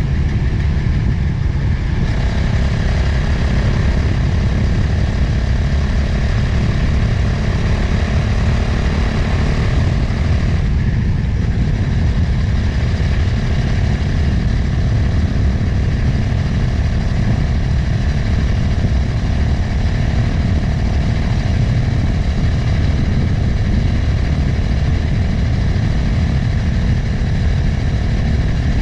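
Motorcycle engine running on the move with wind rushing over the microphone, a steady low rumble under the engine's note. The note shifts briefly near the start and again about eleven seconds in.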